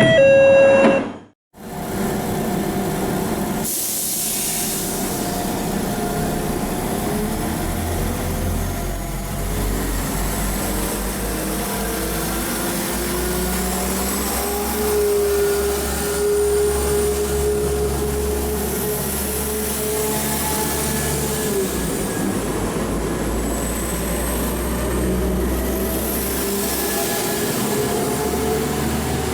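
Passenger train running on the line: a steady rumble of wheels with a humming tone held for several seconds partway through and a faint high whine above.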